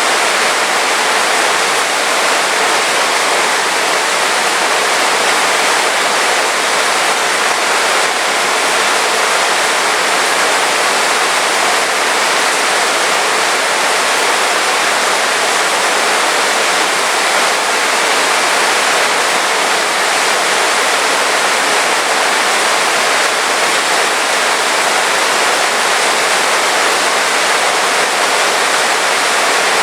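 Heavy rain falling steadily: a dense, even hiss with no drops or thunder standing out.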